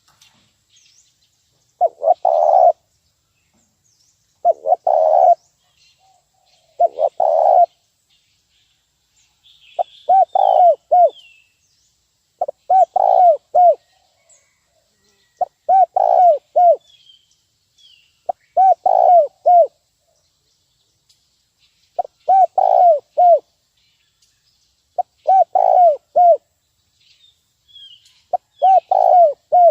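Spotted dove (terkukur) cooing its lure call: a phrase of several short low coo notes repeated about every three seconds, ten times. Faint high chirps of small birds come between the phrases.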